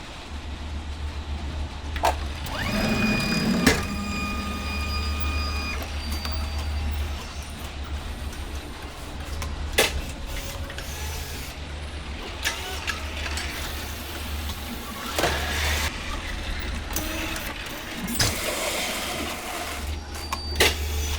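An engine running with a steady low hum, with knocks and clatter at intervals from loads being handled. A steady high tone sounds for about three seconds near the start.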